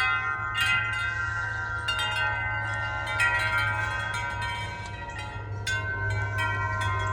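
Tuned wind chimes ringing in gusty wind, their tubes struck over and over so that many overlapping bell-like tones sound together, over a steady low rumble.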